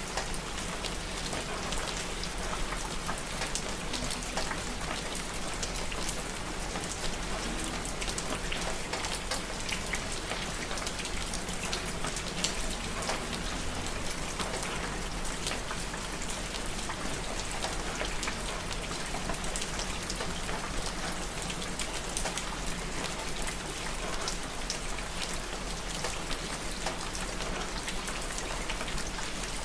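Steady rain, with many separate drops ticking sharply against a constant hiss.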